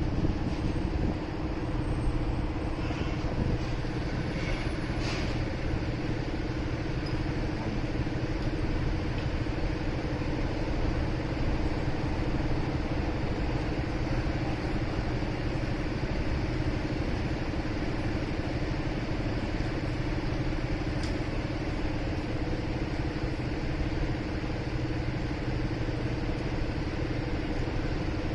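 Motorcycle engine running at steady revs, a constant hum that neither rises nor falls, under a background of street traffic noise.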